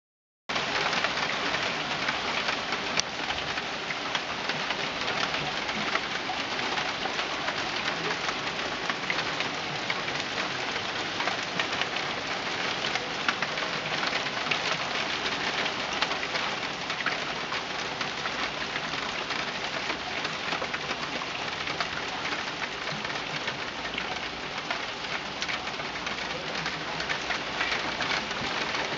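Heavy rain shower falling steadily on a garden: an even hiss of drops pattering on leaves and paving.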